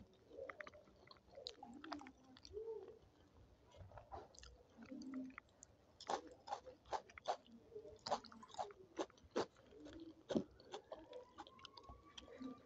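Close-miked chewing and biting of a meal of dal and rice, with sharp crisp crunches that come thick and fast in the middle of the stretch.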